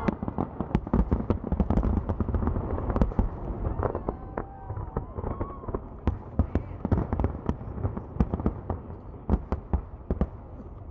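Aerial fireworks shells bursting in quick succession: a dense string of sharp bangs over a steady low rumble, thick and loud at first and thinning to scattered bangs toward the end.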